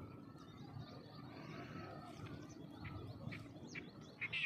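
Small birds chirping faintly now and then over a low, steady outdoor rumble, with a few short, louder clicks near the end.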